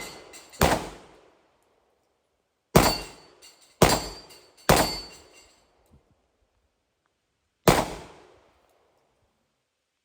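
Five 9mm pistol shots from a Glock 19. They come at uneven intervals: one about half a second in, three about a second apart in the middle, and a last one near the end. Each crack rings off briefly.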